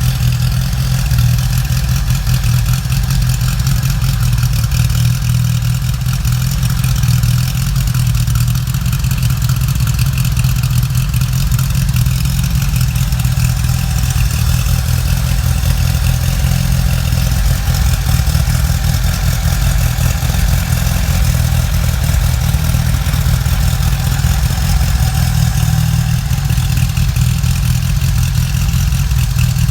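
Renault Ventoux inline four-cylinder engine, a 1093 type enlarged to 904 cc, running steadily at a constant speed.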